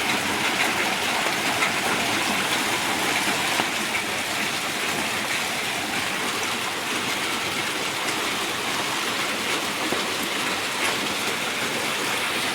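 Heavy storm downpour falling steadily, a dense hiss of rain full of many small sharp hits on surfaces.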